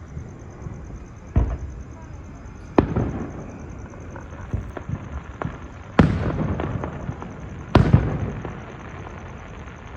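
Fireworks exploding: four loud booms a second or two apart, each with a trailing rumble, the third followed by a quick run of smaller crackling pops.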